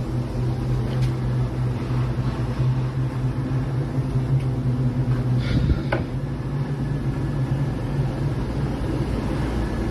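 Roomba robot vacuum running with a steady motor hum, with a few faint knocks about halfway through.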